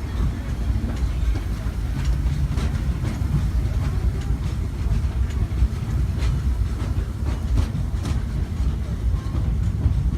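Disneyland Railroad steam train's passenger car rolling along the track: a steady low rumble of wheels on rail with occasional light clicks.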